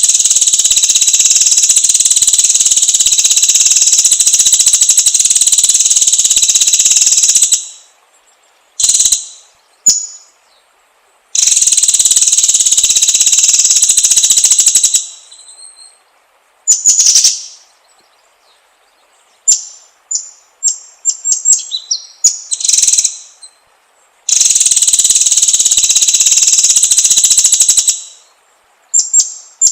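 White-rumped shama (murai batu) singing: three long, loud, high buzzing trills of several seconds each, broken by short sharp whistled notes and quick chirp phrases.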